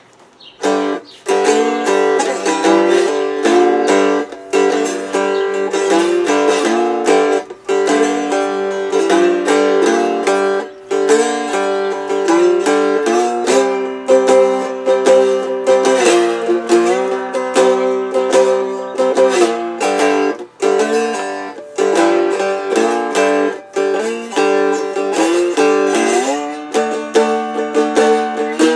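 Handmade cigar box guitar played with a slide: a blues lick of plucked notes with occasional slides between pitches, starting about a second in.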